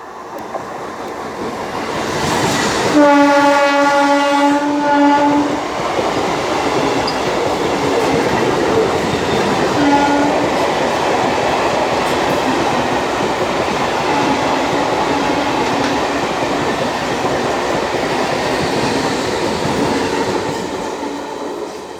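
MEMU electric multiple-unit train running over the rails with continuous track noise, sounding its horn: a long blast about three seconds in, a short toot around ten seconds, and fainter honks later on.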